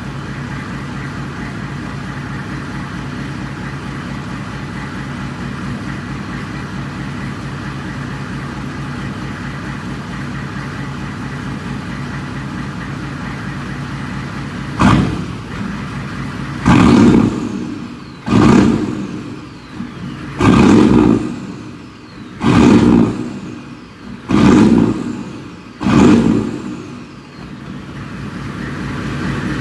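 1992 GM 6.5-litre turbo-diesel V8 idling steadily, then blipped once about 15 seconds in and revved six more times in quick succession, each rev dropping back before it settles to idle again.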